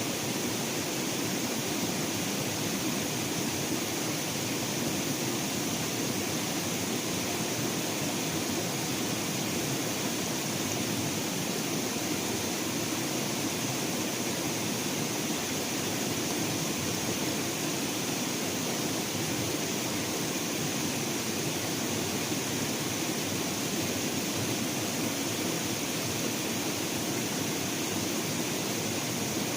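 Steady, even outdoor hiss with no distinct events, holding at one level throughout.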